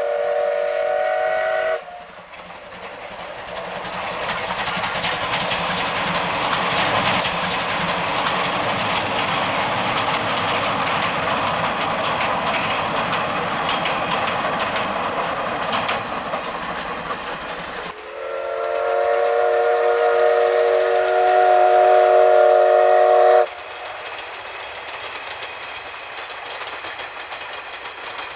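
Steam locomotive C12 66's whistle ends about two seconds in. The train then runs past with a loud rolling clatter of wheels over the rails. A second whistle blast of about five seconds cuts off sharply, leaving a quieter rumble of the train.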